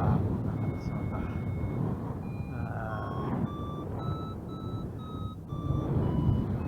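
Paraglider variometer beeping: short steady tones, about two a second, stepping up and down in pitch, which signal that the glider is climbing in lift. Under them, wind rushes steadily over the microphone.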